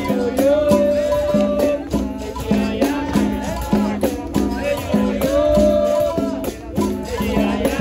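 Capoeira roda music. A berimbau twangs back and forth between two notes in a repeating rhythm, with a caxixi rattle shaking along. Voices sing two long held notes over it.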